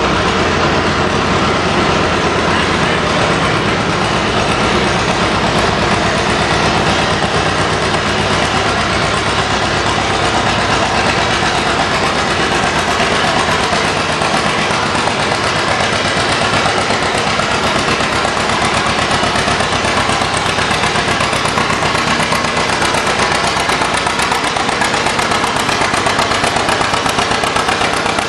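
Antique farm tractor's engine running hard under load while pulling the sled, a loud steady engine note with a rapid firing rhythm; its deep rumble thins out about halfway through.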